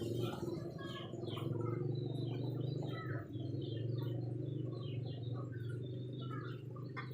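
Domestic canary singing: a run of quick, short chirps and twittering notes, over a steady low hum.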